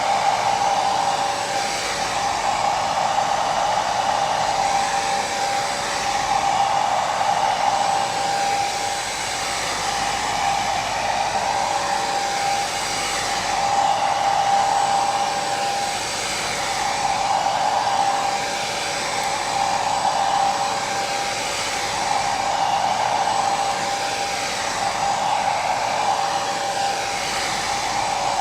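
Hair dryer blowing steadily, a constant whooshing motor and airflow noise with a steady whine, swelling and easing gently every few seconds.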